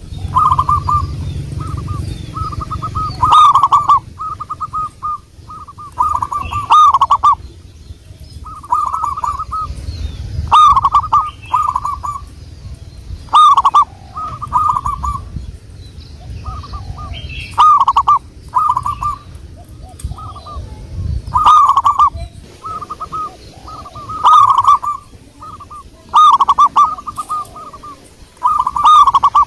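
Zebra dove (perkutut) cooing: phrases of quick, rolling coo notes repeated every few seconds. Under the calls there is a low rumble, strongest in the first few seconds.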